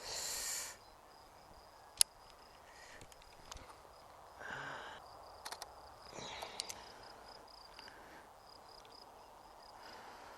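Crickets in the grass chirping in a steady, faint, high-pitched pulsing trill. Over it come handling sounds of a tripod being set up: a brief rustle at the start, a sharp click about two seconds in, and a few softer rustles and taps later.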